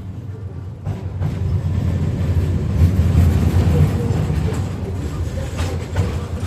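KTM-5M3 tram running along the track, a steady low rumble of wheels and running gear that swells in the middle. A few sharp knocks, like rail joints, come about a second in and near the end.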